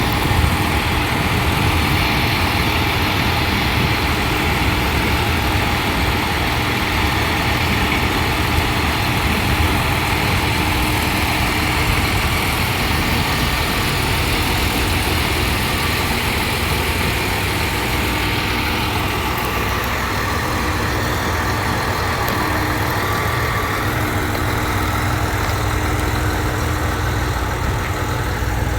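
Diesel engine of the KiYa 141-2 track-inspection railcar running steadily at idle.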